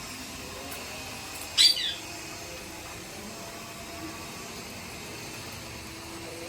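Indian ringneck parrot giving one short, high call about one and a half seconds in, over a steady hiss.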